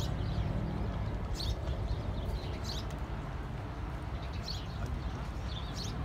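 Small birds chirping in short scattered bursts over a steady low outdoor rumble.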